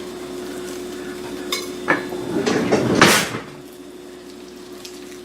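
Knife and fork on a plate, cutting into a smoked Cornish hen: a couple of sharp clinks, then a longer scrape about two to three seconds in.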